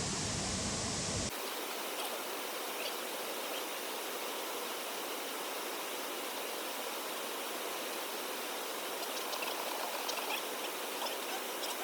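Steady rush of flowing water, with faint insect chirps over it. The sound changes abruptly about a second in, to a thinner, hissier water sound.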